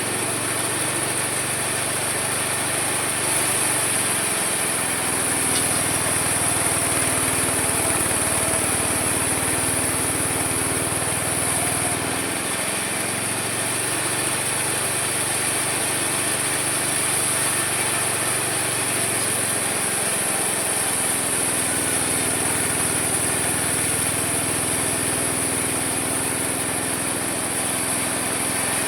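Homemade mini sawmill running steadily, its small engine or motor driving the saw, with a constant high hiss over it. The low note of the motor shifts a few times, as the load changes.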